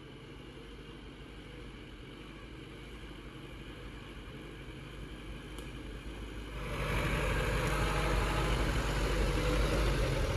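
An engine running steadily, slowly growing louder, then much louder from about six and a half seconds in.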